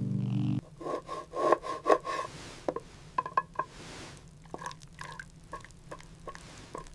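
Music that cuts off about half a second in, followed by a run of irregular wooden knocks and rubbing or scraping, loudest in the first couple of seconds after the music stops.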